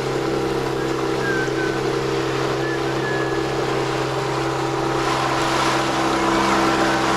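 Boat's engine running steadily under way, a constant drone, with wind and water noise that grows louder about five seconds in.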